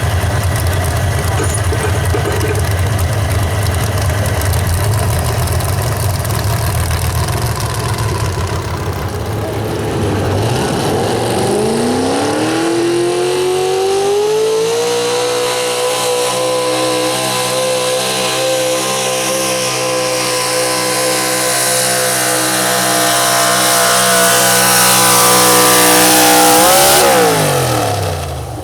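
Super stock 4x4 pulling truck's engine running at low revs, then about 11 seconds in revving up in a steep rising climb to high rpm and holding there for about twelve seconds under the pull. Near the end the revs drop sharply and the sound falls away.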